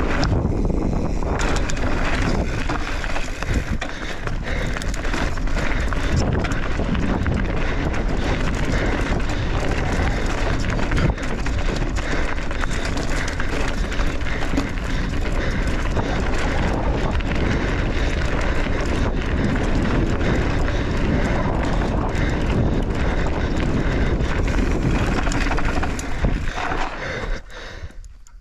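Wind rushing over the microphone, with tyres and frame rattling, as a mountain bike is ridden fast down a jump trail. The noise stays steady, then drops away near the end as the bike slows.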